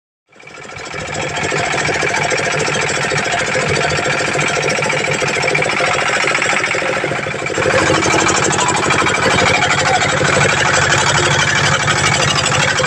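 An engine running steadily with a rapid knocking beat, changing in tone about halfway through.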